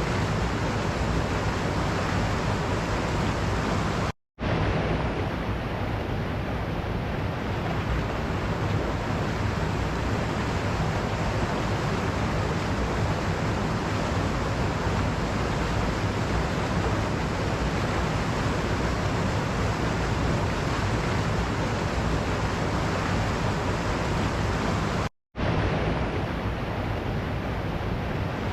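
Waterfall rushing in a steady, even roar of falling water. It cuts out to silence for an instant twice, about four seconds in and near the end.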